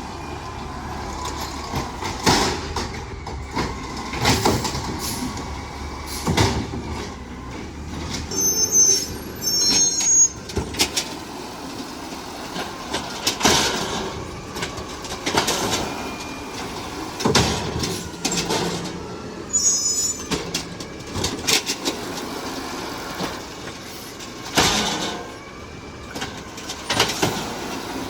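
Garbage truck working with its engine running, and loud metal bangs and clanks every couple of seconds.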